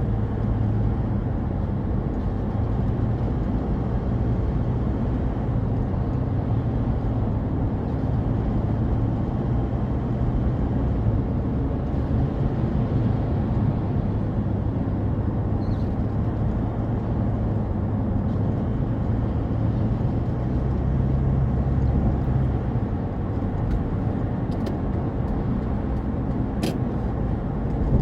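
Steady engine and road rumble of a car being driven, with a light click near the end.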